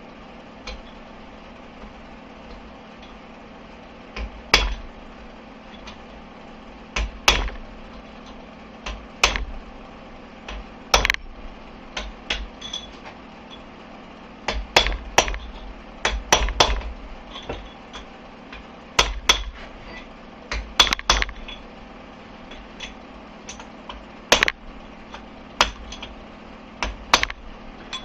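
Hammer blows on steel: irregular sharp strikes a second or more apart, some in quick doubles, each with a short metallic ring. The bearing is being driven into place on a UAZ DYMOS gearbox's secondary shaft.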